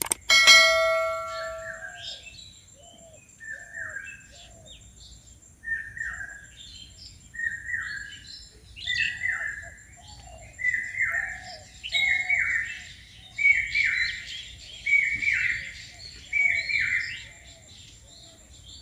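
A bird calling over and over, a short downward-sliding note about every one and a half seconds, growing louder as the calls go on. It opens with a click and a brief bell-like chime, the sound effect of the on-screen subscribe button.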